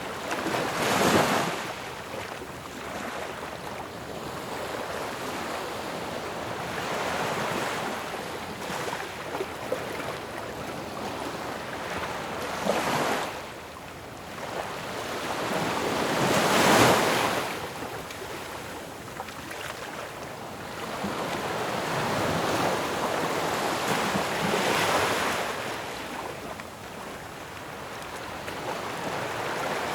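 Ocean waves crashing on a shore in a steady wash of surf, with separate breakers swelling and falling away every few seconds; the loudest break comes about two-thirds of the way through.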